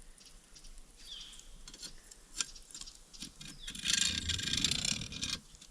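Wrought-iron stake of a campfire cooking set being worked into the ground: a rough, noisy scraping crunch lasting about a second and a half, starting near the end, with a few sharp clicks before it. A short falling bird chirp comes about a second in.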